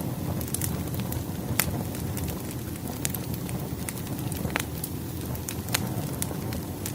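Crackling wood fire: a steady low rumble of burning logs with irregular sharp pops and crackles every half second to second and a half.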